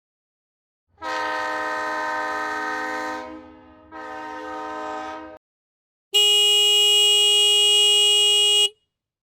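A train horn sounding a steady chord over a low rumble, cut into two blasts. After a short pause comes one loud, steady vehicle horn blast of about two and a half seconds.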